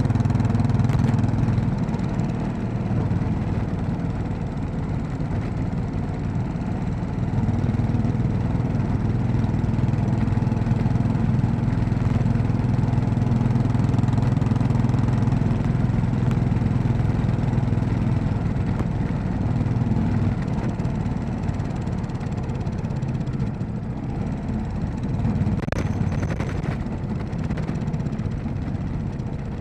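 Royal Enfield Classic 500's single-cylinder engine running under way, its note rising and falling with the throttle: louder through the middle stretch, easing off in the last third.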